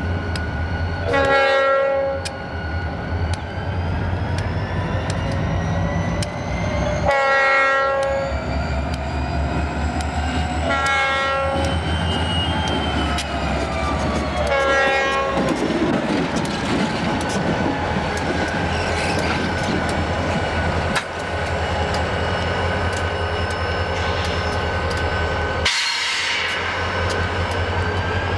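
CSX freight train led by EMD SD40-2 diesel locomotives sounding its multi-chime air horn in four blasts, the grade-crossing warning, each about a second long. After that comes the steady rumble of the diesel engines and the wheels clicking over the rail joints as the train rolls past.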